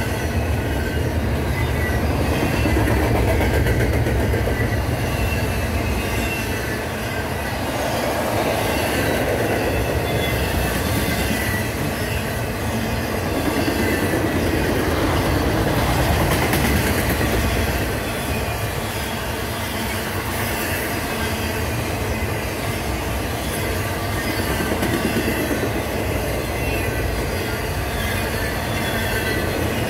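Double-stack intermodal freight cars rolling past close by: a steady rumble and clatter of steel wheels on the rails, with a thin, high wheel squeal wavering over it.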